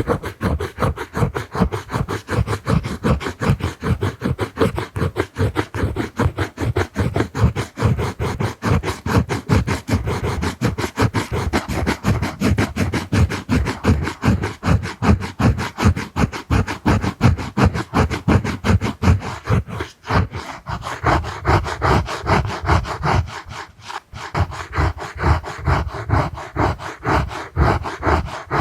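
Quick, repeated scratchy stroking and rubbing of a drawing tool on the camera lens, several strokes a second, with short breaks about 20 and 24 seconds in.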